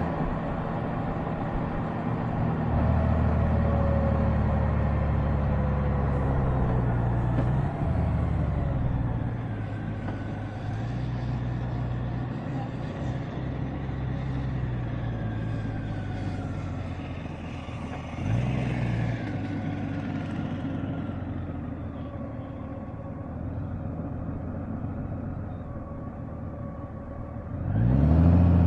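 Honda Gold Wing DCT's flat-six engine running under way, its note stepping up and down as the dual-clutch gearbox shifts, over wind and road noise. There is a louder engine surge that rises and falls near the end.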